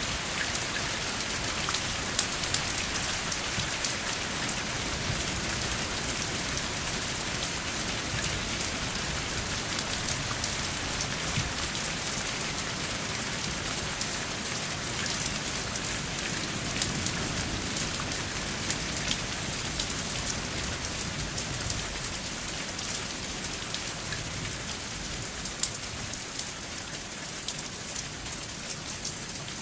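Steady rain falling without thunder: a constant hiss dotted with many sharp ticks of individual drops striking a surface.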